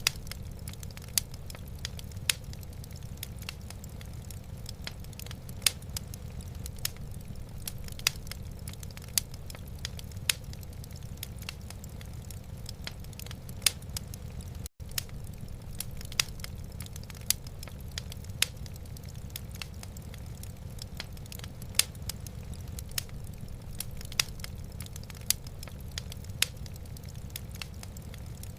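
Wood fire in a fireplace crackling, with sharp irregular pops about once or twice a second over a steady low rumble. The sound drops out for an instant about halfway through.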